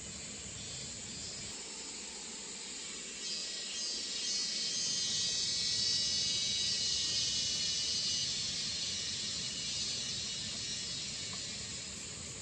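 Insect chorus with a steady high hiss. It swells about three seconds in and eases off again near the end.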